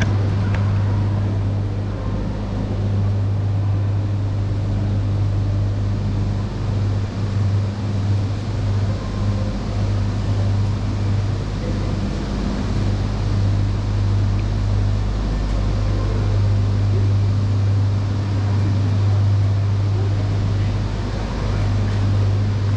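E3 series Shinkansen train standing at a station platform, its onboard equipment giving a steady low hum over a constant hiss.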